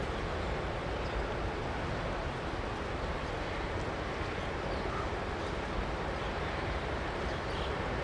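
Jet airliner engines running, a steady rumble that neither rises nor falls.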